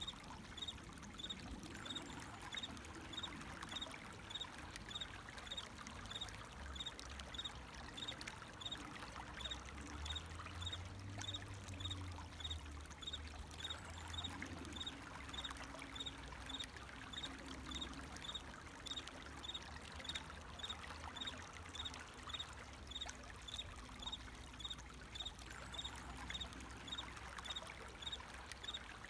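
Water flowing steadily, with crickets chirping in an even rhythm of about two chirps a second.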